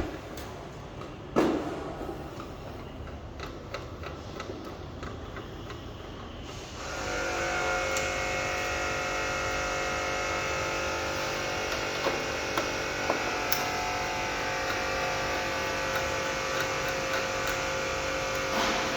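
Scattered clicks and a sharp knock, then about seven seconds in a machine starts up and runs steadily with a hum of several steady tones over a noisy rush.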